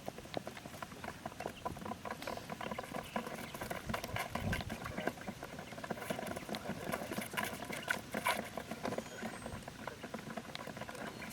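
Irregular patter of many small clicks and taps, like scratching or pecking on a hard surface.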